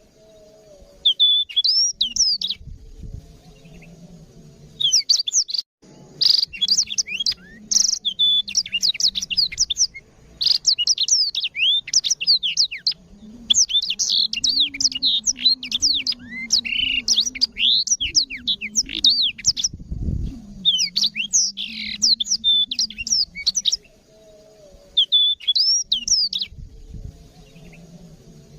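Blackthroat (black-throated canary) singing: long bursts of fast, twittering, high chirps and trills, broken by short pauses of a second or so.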